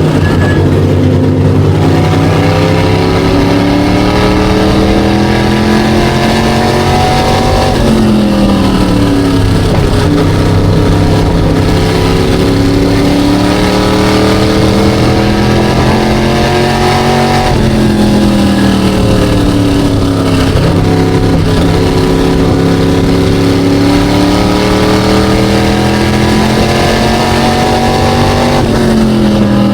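SK Light modified race car engine at racing speed, its pitch climbing steadily down each straight and falling sharply as the car lifts for the corners, about eight and eighteen seconds in and again near the end.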